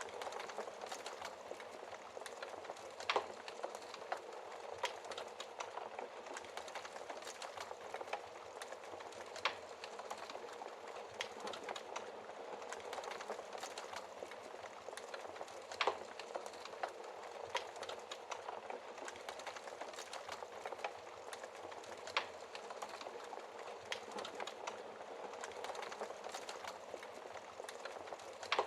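Wood fire crackling steadily under a soft hiss, with frequent small snaps and a few louder pops of burning wood.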